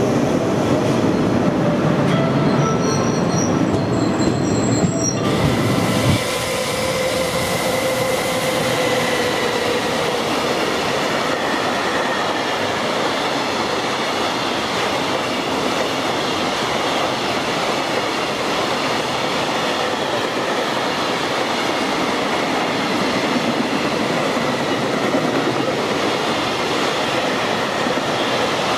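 An electric commuter train running along a station platform, then, after an abrupt change about six seconds in, a long container freight train passing through. The freight train gives a steady rumble and rattle of wheels on rail.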